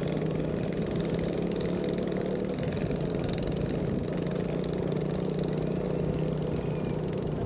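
An engine idling steadily at an even pitch and level.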